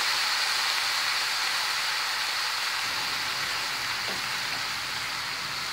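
Rice and asparagus sizzling in a frying pan while the rice toasts before any liquid goes in. A steady hiss that eases off slightly.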